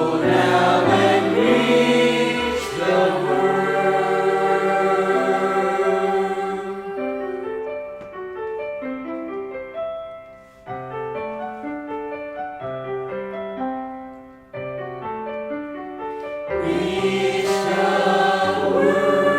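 Choir singing a Christian worship song with instrumental accompaniment. Full, sustained chords open it, a quieter passage of stepping notes follows, and the full sound swells back in about 16 seconds in.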